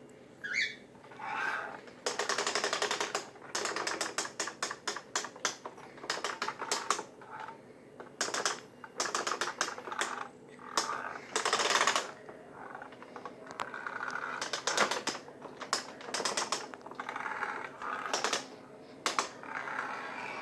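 Kirby vacuum's tech drive transmission clicking in repeated bursts of rapid clicks with short pauses between them: the rear axle gears stay partly engaged when they should be fully disengaged, as the owner describes it.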